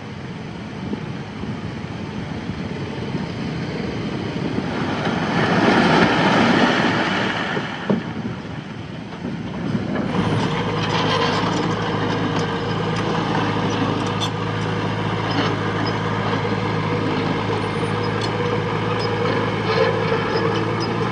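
Diesel engine of heavy earthmoving machinery running steadily. About five seconds in, a louder rushing, grinding noise swells for a few seconds. About ten seconds in, the engine note grows stronger and steadies, with scattered metallic clanks.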